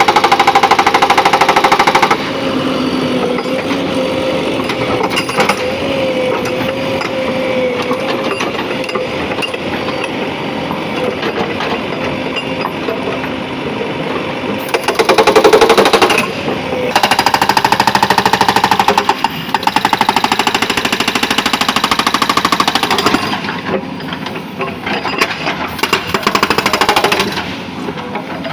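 Hydraulic rock breaker on a JCB 3DX backhoe loader hammering in rapid, continuous blows, loud, swelling in louder stretches at the start, about halfway through and near the end, with the loader's diesel engine running underneath.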